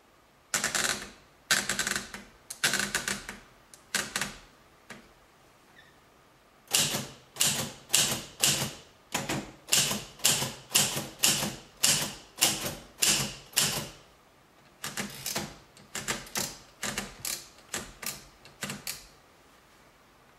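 A series of sharp knocks, each dying away briefly. They come in three runs, the middle and last at a steady pace of nearly two a second.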